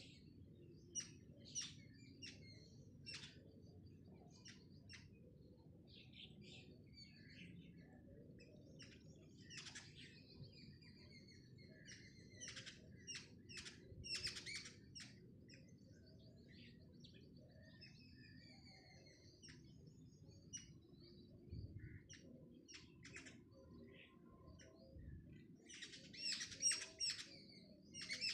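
Faint bird chirps: short scattered calls, a few with a brief sweeping note, coming thicker near the end, over a low steady hum.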